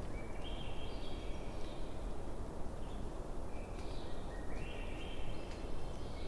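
Bonfire burning with a steady crackle and occasional small pops. Twice, a high call of stepped notes climbs over a second or so, once near the start and again past the middle.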